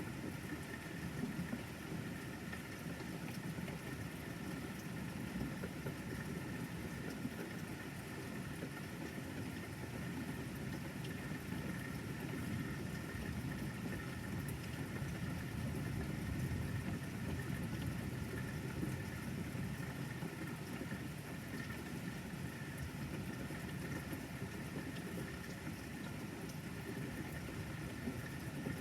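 Steady rain falling, an even hiss with no sharp thunder claps.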